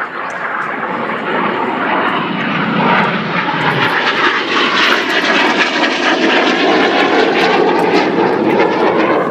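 A fixed-wing display aircraft flying past with its engine noise loud; the sound builds over the first few seconds and its pitch slides down as it goes by.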